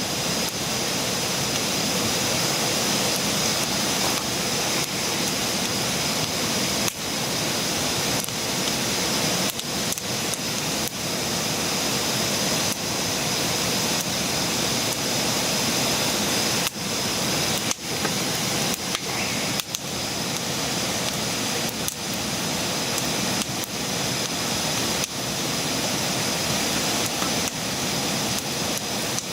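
Wood campfire burning with a steady rushing hiss.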